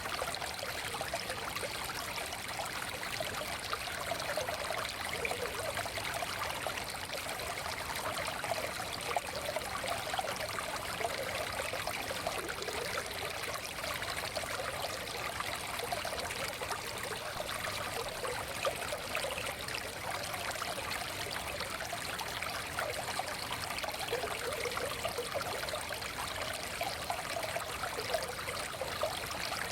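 Forest stream flowing and trickling steadily over stones, a continuous burbling rush of water.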